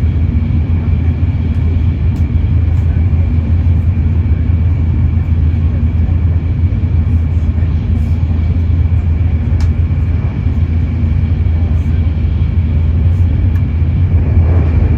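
Steady low rumble of a Shinkansen Nozomi bullet train running at speed, heard from inside the passenger car, with a faint steady high whine over it.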